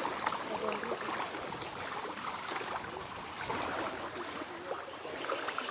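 Steady rush of flowing water, with many short, curving calls and small ticks scattered over it.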